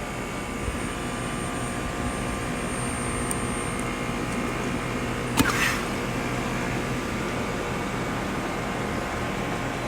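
Steady machine hum and whir, with one sharp click about five and a half seconds in.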